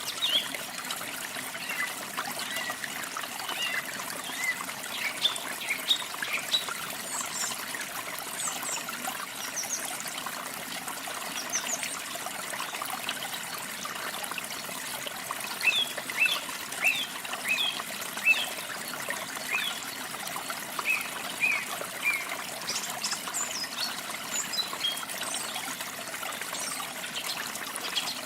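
A steady trickle of running water, with small birds chirping over it in short, scattered notes and a quick run of chirps about halfway through.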